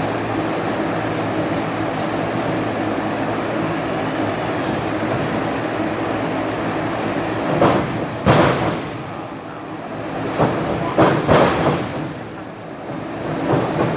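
A steady rumbling din, broken about halfway through by loud impacts in quick succession: two close together, then three, then one more near the end. These are wrestlers' bodies hitting the ring.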